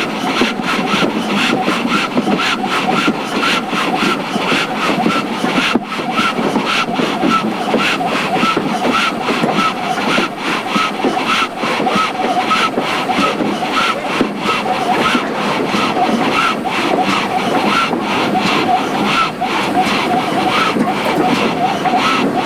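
Steam train under way, hauled by GWR 2-8-0 tank locomotive No. 4277, with a steady fast rhythmic beat of about three to four a second.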